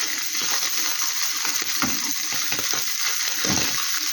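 Queijo coalho sizzling as it toasts in a pan: a steady frying hiss, with a few soft knocks.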